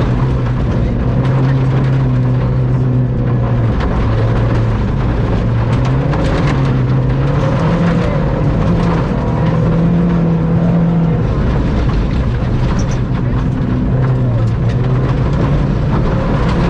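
Ford Fiesta ST rally car's engine running hard at stage speed, heard inside the cabin. Its pitch climbs and drops every second or two through gear changes and lifts, with scattered short sharp clatters over it.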